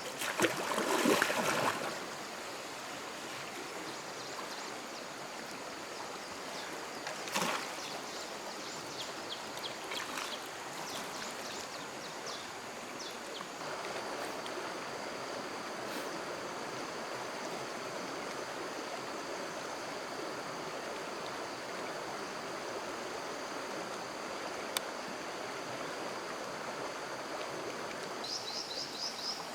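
Stream water flowing steadily. A louder burst of splashing noise comes about a second in and a shorter one around seven seconds. A faint steady high-pitched drone sits over the water.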